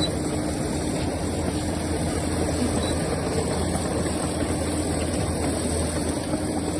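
Heavy diesel machinery engine running steadily, an even low drone.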